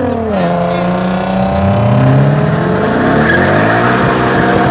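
A car engine revving hard: the pitch dips, climbs over about two seconds and holds at high revs, with tire squeal coming in about three seconds in as the tires spin in a burnout.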